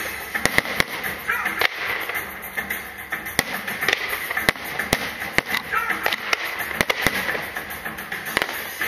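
Aerial fireworks going off: many sharp bangs at irregular intervals over steady crackling, with music playing underneath.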